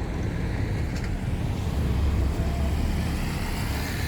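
Motor vehicle running, a steady low engine and road rumble that swells slightly about two seconds in.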